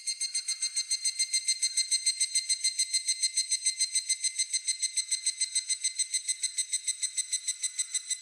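Higurashi (evening cicada) calling: a rapid train of ringing, metallic pulses, about eight a second, that fades toward the end.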